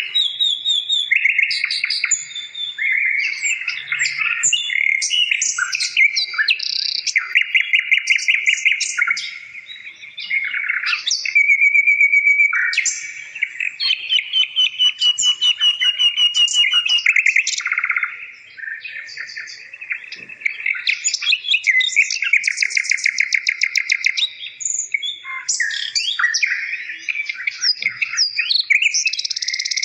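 Songbird singing almost without pause: rapid trills and chirps, with a couple of brief lulls.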